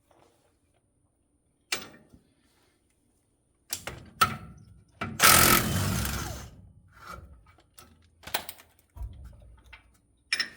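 A power tool runs once for about a second and a half, taking out the brake caliper bolts on a truck's rear axle. Sharp metallic clicks and clanks of tools and brake parts being handled come before and after it.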